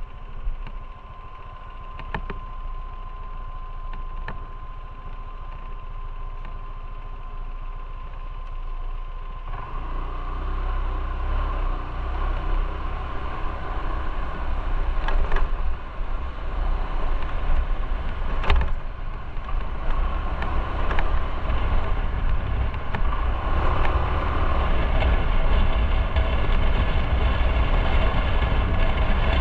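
Motorcycle running on the road, its engine rumble mixed with wind and road noise, getting louder about ten seconds in.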